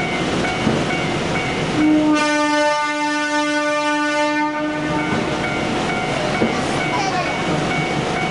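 A train horn sounds one long blast of about three seconds, a single held note with many overtones, over steady background noise.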